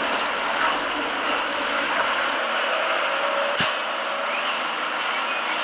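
A steady rushing hiss, with a single short knock about three and a half seconds in.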